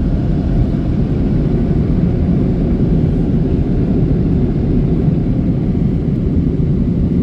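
PDQ Max Air car-wash dryer blowers running steadily, a loud, even rush of air with the overhead and side blowers blasting the car during the drying cycle of a touchless automatic wash.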